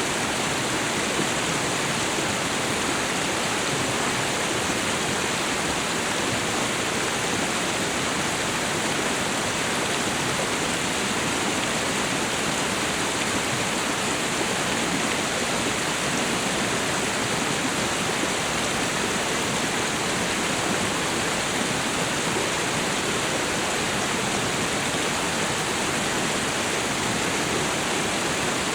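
Steady rushing roar of a waterfall and river, an even wash of falling and flowing water with no changes.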